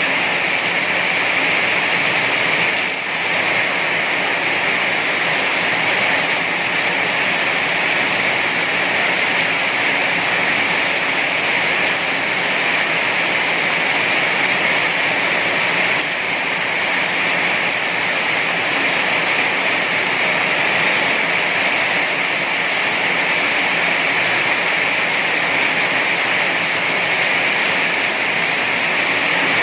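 Heavy rain falling steadily, a dense, even hiss with a brief dip in loudness about three seconds in.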